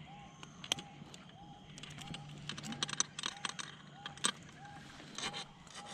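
Irregular sharp clicks and knocks from a freshly caught bream being handled on a kayak, the loudest two about a second in and past four seconds. Behind them a short rising-and-falling call repeats about every two-thirds of a second over a faint low hum.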